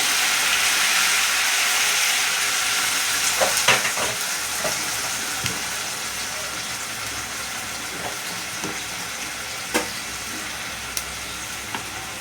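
Onions frying in hot oil in a kadai: a loud, even sizzle that slowly dies down, with a few sharp clicks of a spoon stirring against the pan.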